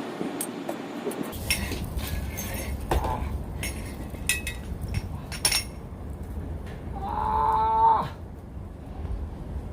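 Metal clinks and knocks, then about seven seconds in a loud one-second squeal, as a 2005 Prevost coach is let down off its jack after a front brake job.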